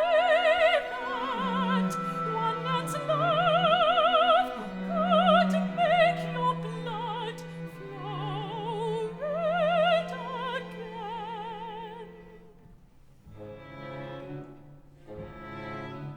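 Operatic singing: a high voice holding long notes with wide vibrato over sustained low strings of a small orchestra. The music thins to quieter, sparser playing after about twelve seconds.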